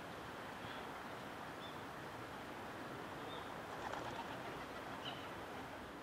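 Steady outdoor background hiss with a few faint, short, high bird chirps spread through it, and a brief rustle about four seconds in.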